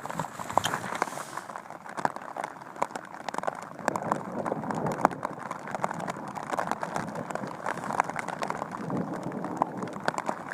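Rain pattering on the fabric of a bivy cover, heard from inside: a steady hiss of drops with many sharp little ticks of single drops close by.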